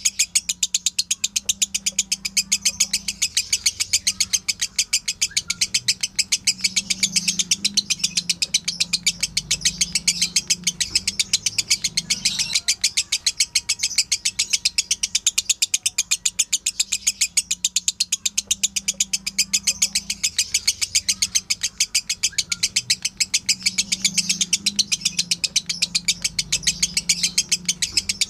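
Lovebird chattering in its long 'ngekek' song: an unbroken string of sharp, high chirps repeated rapidly and evenly, several a second.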